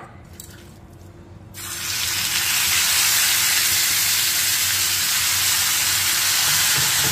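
Marinated meat pieces sizzling in hot oil in an iron pan. The sizzle starts suddenly about a second and a half in, as the meat goes into the oil, then holds loud and steady.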